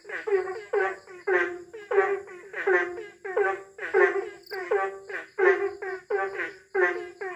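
Asian common toads calling in chorus: short, pulsed, croaking calls follow one another two to three times a second, several toads overlapping.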